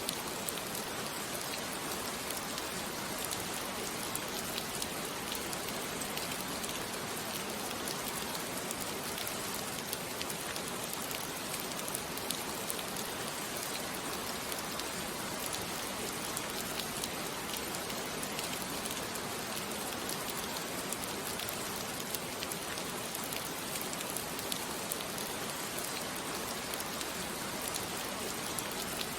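Steady rain falling, a constant hiss of drops with fine scattered patters on a surface.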